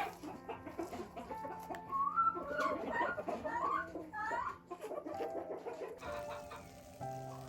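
Chickens clucking and calling, busiest from about two to four and a half seconds in, over soft background music with held notes.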